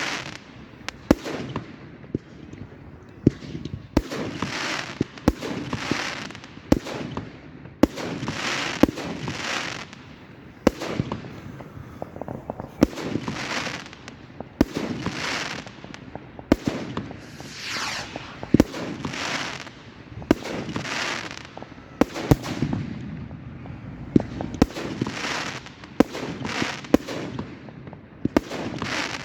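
A fireworks display going off continuously: sharp bangs every second or so, many of them followed by about a second of hissing.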